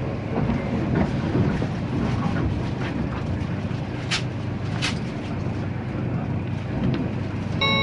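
Running noise of a 485-series electric train heard inside the passenger car: a steady rumble with faint wheel clicks over rail joints and two short hisses about four and five seconds in. An on-board announcement chime starts right at the end.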